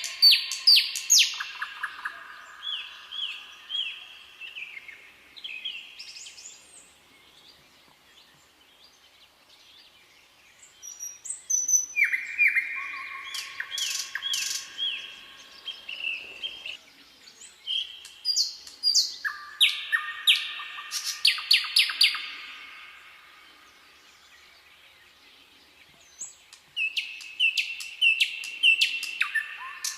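Songbirds singing in phrases of rapid, repeated chirping notes, each burst lasting a few seconds, with quieter pauses between bursts.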